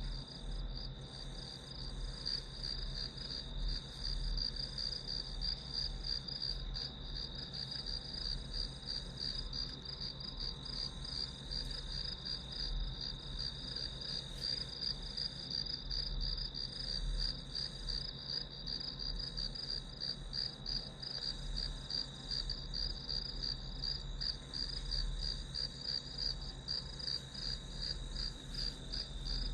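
Crickets chirping in a steady, fast, continuous trill, with a faint low hum underneath.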